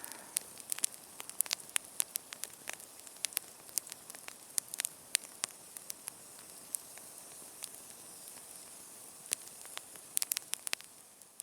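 Small wood campfire crackling: irregular sharp pops and snaps over a soft hiss, thickest near the start and again shortly before the end.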